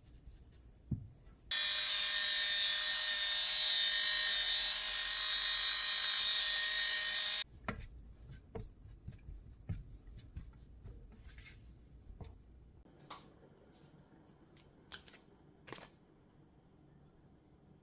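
A small electric motor whirs loudly and steadily for about six seconds, then cuts off suddenly. Light clicks and knocks of kitchen handling follow.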